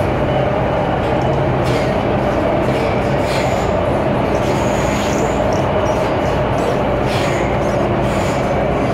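MTR M-train metro running steadily through the tunnel between stations, heard from inside the car as a loud, even rumble. A few brief high wheel squeals come through along the way.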